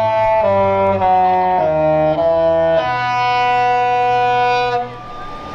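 Disney cruise ship's musical horn sounding a tune: chords of brassy held notes stepping from one pitch to the next, ending about five seconds in.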